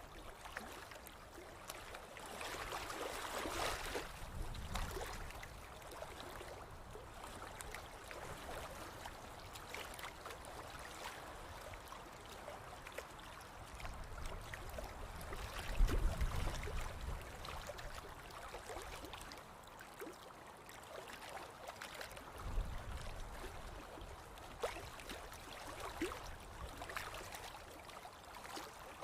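Outdoor ambience: a soft, steady rush of water-like noise with scattered faint clicks, broken by a few low rumbles, the strongest about halfway through.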